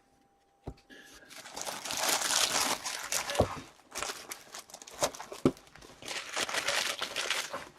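Plastic wrapping on a box or pack of trading cards being torn open and crinkled by hand, with a few sharp clicks mixed in.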